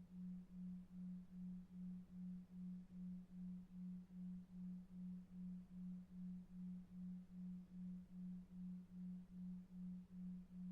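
A low, pure sine tone pulsing evenly about two and a half times a second, a 2.5 Hz delta-wave isochronic tone, over faint brown noise. It is quiet and does not change.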